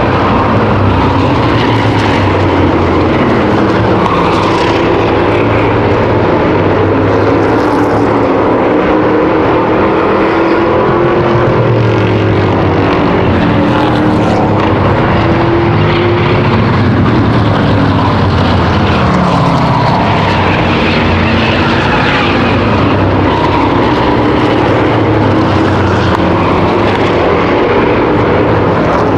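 Field of V8 stock cars and racing trucks running at race speed, several engines heard together, their pitches rising and falling over one another.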